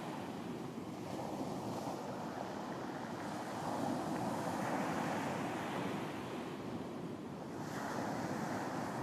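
Ocean surf washing onto a beach: a continuous rush of breaking waves that swells louder about a third of the way in and again near the end.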